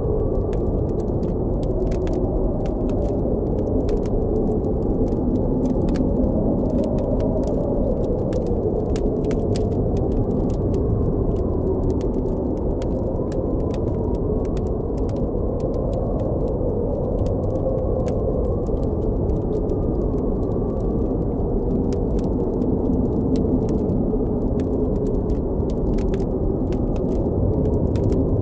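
Blizzard wind blowing steadily, a dense low rush with a faint howling pitch that drifts up and down, while a campfire crackles with frequent sharp pops throughout.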